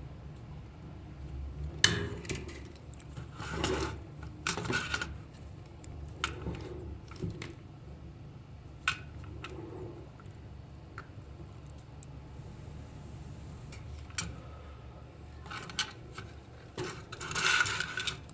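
Small hard objects being handled: scattered clicks, light clatter and short scraping and rubbing noises, over a steady low hum.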